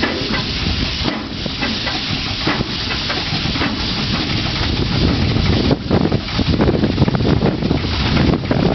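Large Enterprise DSG-36 industrial diesel engine running with a fast, uneven chuffing and hissing, a little louder about halfway through. It is being run for the first time in 30 years and is not yet at full power.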